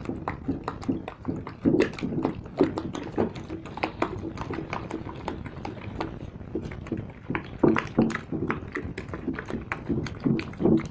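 A thick liquid-soap mixture being stirred by hand, with irregular knocks and clicks against the container.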